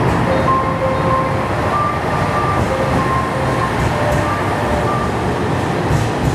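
Diesel railcar pulling out and passing close by, its engine running and wheels rolling on the rails in a steady, loud rumble.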